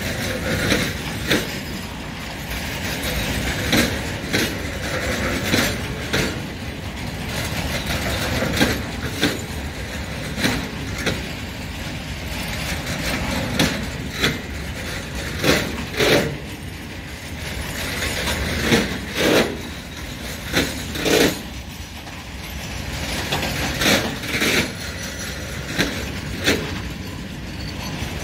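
A freight train of open-top wagons rolling past, its wheels rumbling steadily on the rails. Sharp clacks, often in pairs, sound every couple of seconds as the wheelsets cross rail joints.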